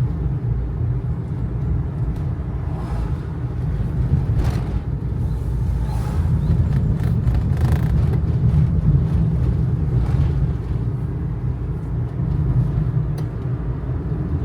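Kei truck heard from inside the cab while driving: the small engine's steady drone and low road rumble, with a few faint brief bumps from the ride.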